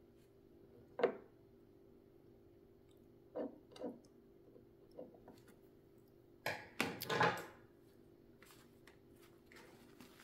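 Handling noises at a sewing machine being serviced: a few short knocks and clatters of tools and metal parts, busiest a little past halfway, over a faint steady hum.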